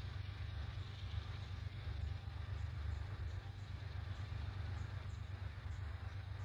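Diesel-electric locomotive pulling a train under load in throttle notch 4, heard as a steady low rumble.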